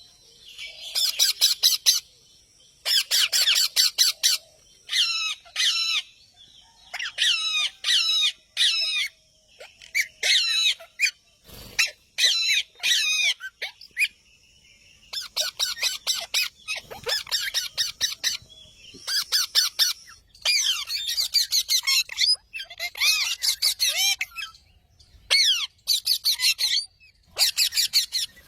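Parrot calling in repeated rapid bouts of short, high chirping notes, each bout about a second or two long with brief pauses between.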